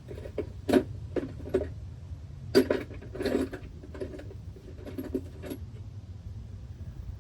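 Metal hand tools clinking and knocking in an irregular series of sharp clicks, with a brief scraping rattle about three seconds in, over a steady low hum.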